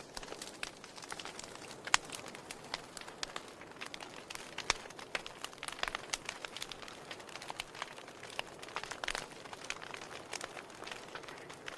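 Wood fire crackling in a fireplace: a soft hiss with irregular snaps and pops of burning logs, a couple of sharper pops about two and five seconds in.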